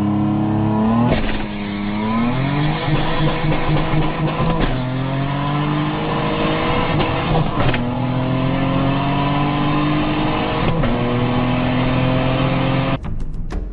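Car engine accelerating hard through the gears, heard from inside the cabin: its pitch climbs, then drops at each of four upshifts, each gear pulling longer than the last.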